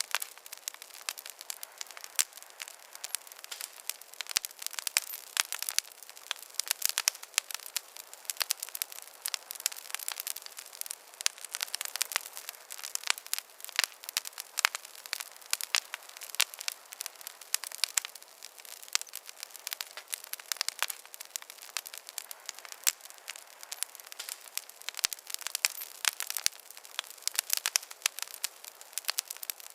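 Campfire of burning wood crackling: dense, irregular pops and snaps, several a second, over a soft steady hiss.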